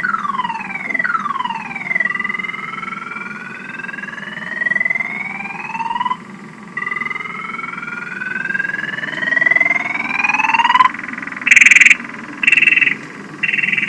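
Toyota Tundra's car alarm siren cycling through its tones: two quick falling sweeps, then two long rising whoops, then rapid beeping near the end. It is loud. The alarm is sounding on a dead battery that has just enough power left to set it off.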